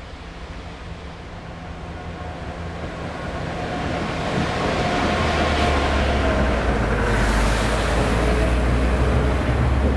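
Class 66 diesel locomotive, its two-stroke V12 engine running with a steady low drone, approaching and passing at the head of a rail head treatment train, getting steadily louder. A broad hiss from the high-pressure water jets blasting the railhead, together with the wagons' wheels on the rails, swells to its loudest near the end as the water tank wagons go by.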